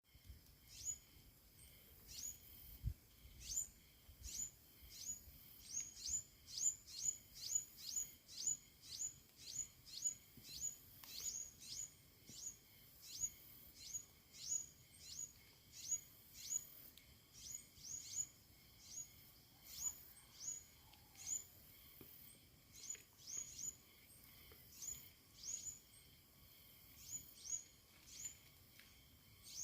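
A bird calling in a long steady series of short, high chirps, each dropping quickly in pitch, roughly two a second.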